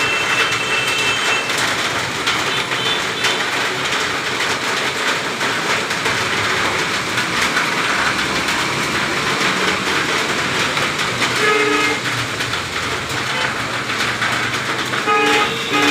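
Heavy rain falling steadily, a dense even hiss, with brief tones sounding about eleven seconds in and again near the end.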